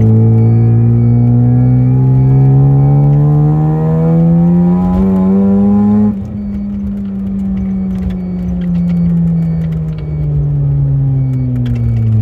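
Naturally aspirated half-bridge-ported 13B rotary engine of a Mazda RX-7 FC3S pulling steadily up through a gear, rising in pitch for about six seconds. Then it comes off the throttle with a sudden drop in level, and its pitch sinks slowly as the car coasts down.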